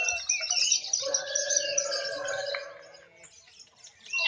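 Lovebirds chirping rapidly in high, busy calls, with a long buzzing trill in the middle; the chirping drops away about three seconds in.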